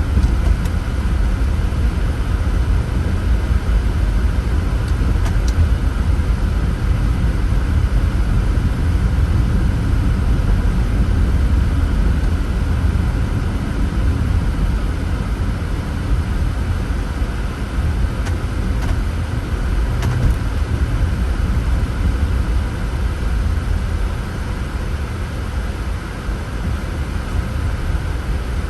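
Car driving along a road, heard from inside the cabin through a dashcam: steady engine and tyre noise with a deep rumble.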